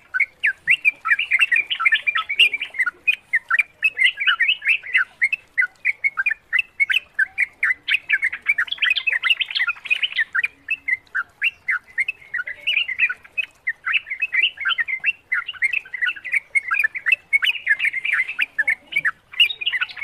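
Yellow-vented bulbul (trucukan) singing: a rapid, continuous chatter of bubbling chirps, several notes a second.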